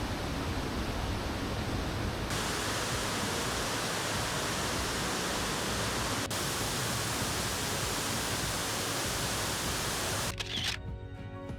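Waterfall's steady rush of falling water, a loud even hiss that turns brighter about two seconds in. Music comes in near the end.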